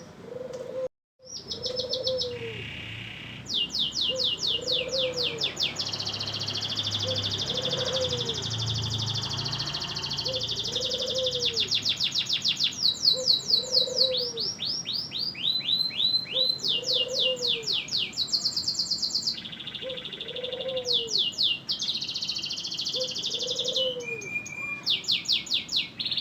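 Domestic canary singing a loud, continuous song of fast trills and repeated sweeping notes, switching from one roll to the next every few seconds. The sound cuts out briefly about a second in, and a low short note repeats about every two seconds beneath the song.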